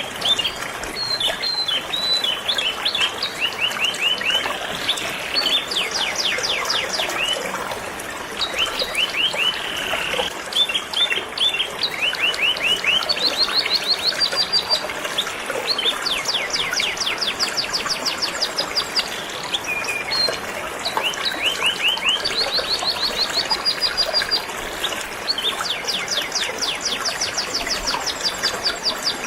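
Canary singing in long, fast trills of rapidly repeated high notes, over the steady rush of flowing river water.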